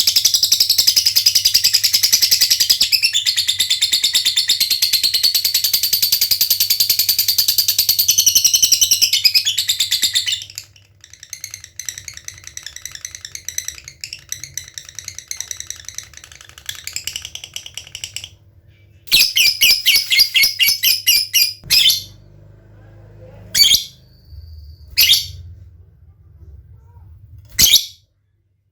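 Lovebird song. First comes about ten seconds of loud, unbroken, very fast high trilling (the long 'ngekek'). This is followed by quieter rapid clicking, then a loud burst of fast ticking ('ngetik') about two-thirds of the way in, and three short sharp calls near the end.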